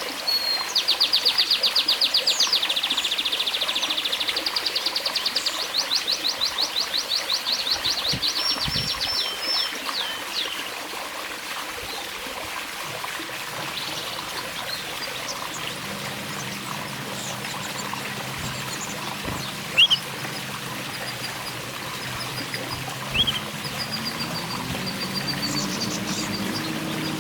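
A canary singing long, fast trills of rapidly repeated notes for about the first ten seconds, over a steady trickle of water. After that only a few short chirps are heard, and a low hum comes in about halfway through.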